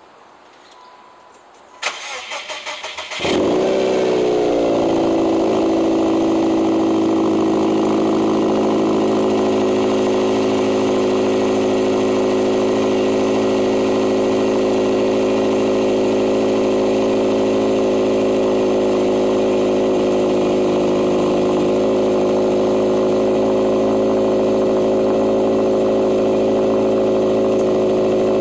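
Car engine cranked over by the starter for a little over a second, catching about three seconds in with a brief flare in revs that settles within a couple of seconds. It then idles steadily through straight-pipe axle-back exhausts with a midpipe.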